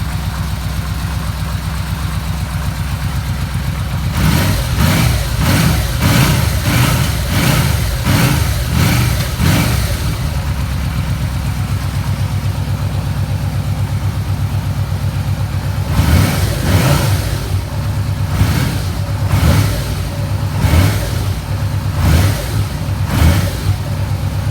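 Yamaha V-Max 1200's V4 engine idling, then blipped quickly over and over for several seconds. It settles back to idle, then takes a second run of separate throttle blips.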